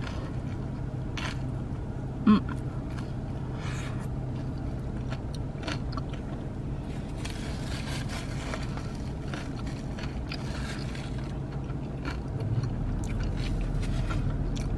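Close-up chewing of a crunchy fast-food sandwich topped with crispy corn pieces, with scattered crackles and crunches as it is bitten and chewed. A short loud hum comes about two seconds in, and a steady low hum runs underneath, growing a little louder near the end.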